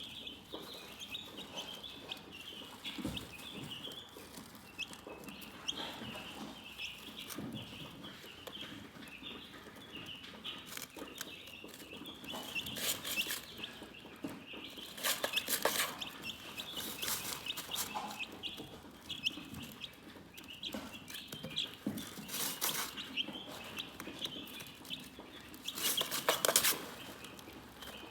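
Chickens chirping continuously in rapid, short high-pitched peeps, with softer low clucks underneath. A few brief scratchy noises break in during the second half.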